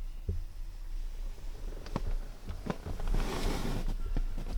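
Handling noise from someone moving about in a cramped space: scattered light knocks and clicks, and a brief rustle about three seconds in, over a low rumble.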